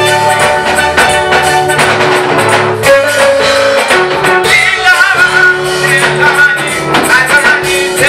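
Live gospel praise music from a church band, with drum kit and other instruments holding chords and a rhythm. Singing voices come in over the band from about halfway through.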